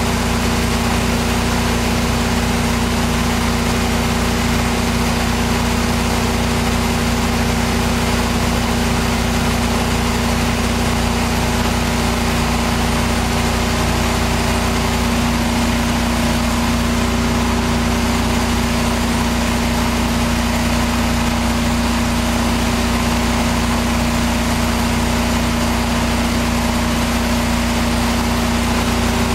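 Pressure washer's engine running at a steady speed, with an even hum that does not change.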